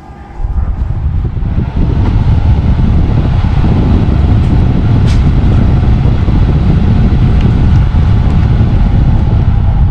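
Heavy, steady low rumble of moving air buffeting the microphone, starting about half a second in, with a faint steady motor hum, as from a ceiling fan running close to the microphone.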